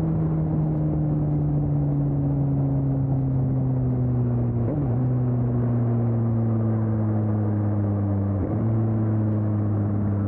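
2020 Suzuki GSX-S750's inline-four engine running through an aftermarket Storm exhaust while the bike is ridden, its pitch slowly falling. There are two brief breaks in the note, about five and eight and a half seconds in, as gears are changed.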